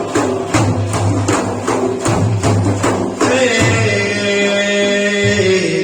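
Frame drums beating a steady rhythm, about four strokes a second, in Sufi devotional chanting; about three seconds in, a long held sung note comes in over them.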